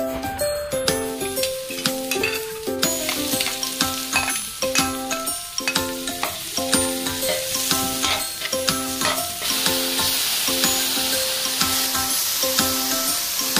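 Chopped onion and garlic sizzling as they sauté in hot oil in a wok, stirred with a spatula. The sizzle grows denser in the last few seconds as marinated beef is poured in. Background music with a repeating melody plays throughout.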